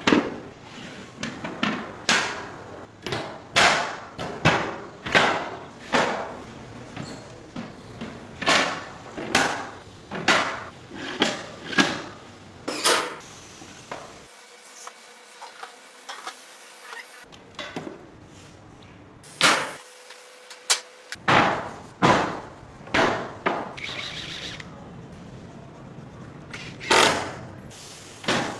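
Hand woodworking: a tool striking wood in a long series of sharp knocks, one or two a second, with a pause in the middle and a short gap a few seconds later.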